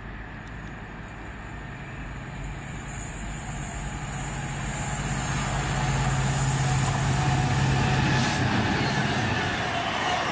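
Direct Rail Services Class 66 diesel locomotive, with its two-stroke V12 engine, approaching and passing on a container freight train: a steady low engine drone grows louder and ends just over eight seconds in as the locomotive goes by, leaving the rumble of the container wagons rolling past.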